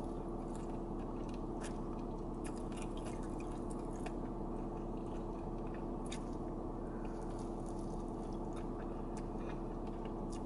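Close-up chewing of a chicken wing: scattered wet mouth clicks and smacks while biting and chewing. Beneath it is a steady low hum inside the car, the loudest sound throughout.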